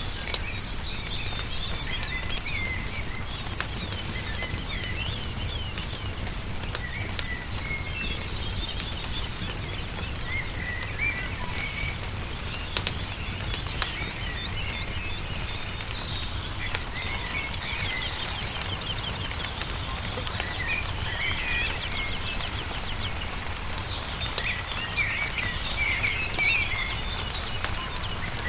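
Songbirds chirping and twittering in short calls, over scattered sharp pops and crackles of a wood fire and a steady low rumble.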